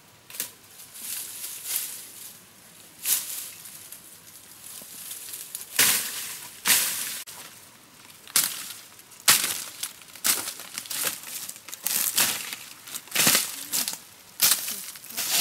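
Irregular rustling and crackling with sharp snaps at uneven intervals, louder and more frequent from about six seconds in.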